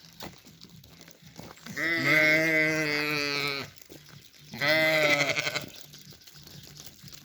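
Small livestock bleating twice: a long wavering bleat about two seconds in, then a shorter one about a second after it ends.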